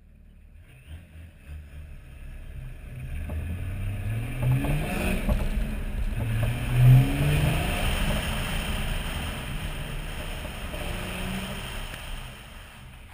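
BMW 525 tds straight-six turbodiesel engine pulling away and accelerating, its note climbing in several rising sweeps over the first seven seconds as it goes up through the gears, then settling to a steady cruise. Wind rushes over the outside-mounted camera, growing with speed.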